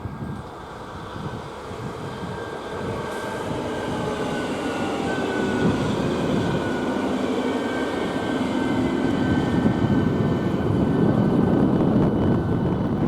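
A train approaching, its running noise growing steadily louder, with a few faint tones that sink slowly in pitch.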